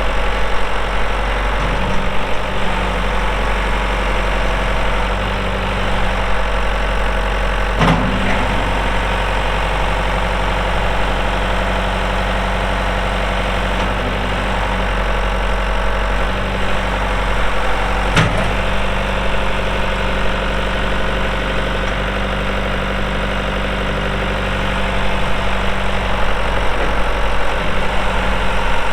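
John Deere 2555 tractor's diesel engine running at a steady speed, with two brief clunks about 8 and 18 seconds in.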